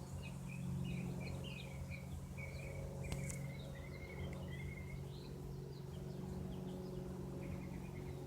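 Single-engine Cessna light aircraft's piston engine and propeller droning steadily overhead at an even pitch. Small birds chirp over it during the first half, and there is a single sharp click about three seconds in.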